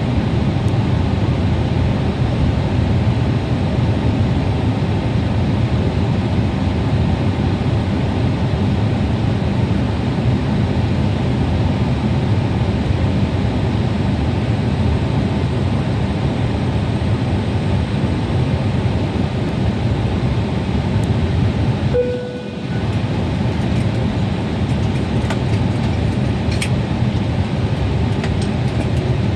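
Steady loud low rumble of a vehicle in motion. About two-thirds of the way through it dips briefly with a short tone, and a few faint clicks come near the end.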